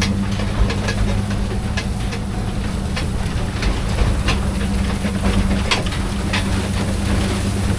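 Vehicle engine running steadily with a low hum, with scattered sharp metallic rattles and clanks over it.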